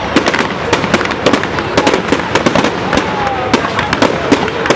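Fireworks going off: a dense, irregular run of sharp bangs and crackles, several a second.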